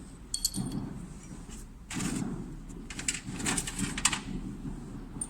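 Small metal parts and tools clinking and scraping during hand assembly of a diesel injector, with a short ringing metal click about half a second in.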